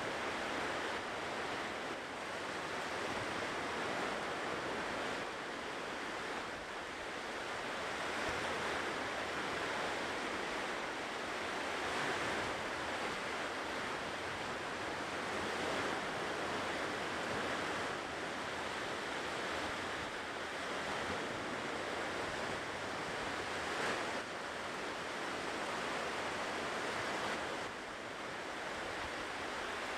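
Ocean surf washing steadily onto a shore, a continuous rushing hiss that swells and eases gently every few seconds.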